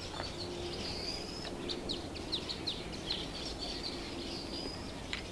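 Small birds chirping: a run of quick, high chirps in the middle, over faint outdoor background noise.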